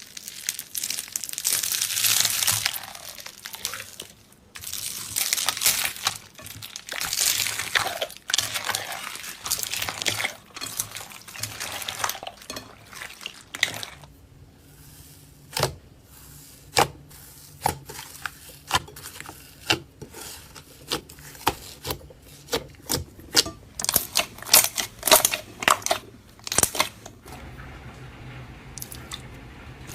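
Slime being squeezed, stretched and poked by hand: long crinkly, crackling swells for about the first half, then a run of short wet pops and clicks that come faster near the end.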